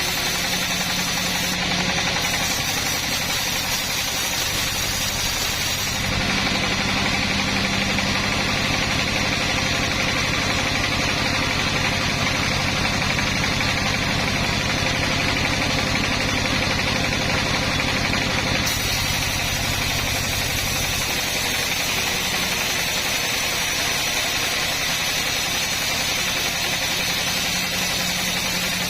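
Engine of a wood-cutting saw running steadily. Its sound changes about six seconds in and again near nineteen seconds.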